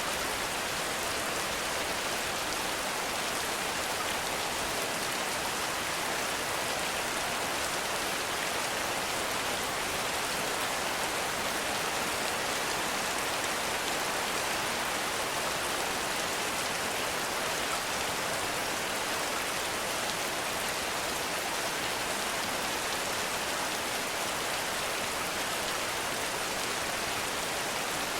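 Heavy rain falling steadily in a forest, a dense, even hiss of drops with no single strikes standing out.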